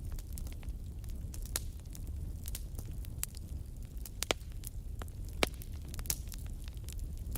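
Campfire burning with irregular crackles and snaps of wood, two sharper pops standing out about four and five and a half seconds in, over a steady low rumble.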